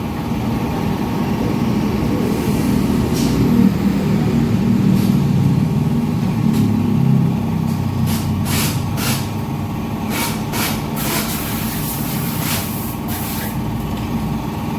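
Short hissing bursts of pressurised spray, several in a row from about 8 to 13 seconds in, over a steady low mechanical rumble that runs throughout.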